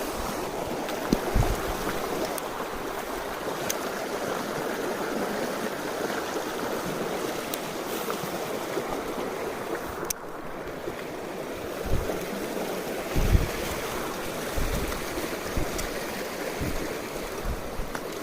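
Mountain stream water rushing steadily over rocks, with a few short dull low bumps on the microphone.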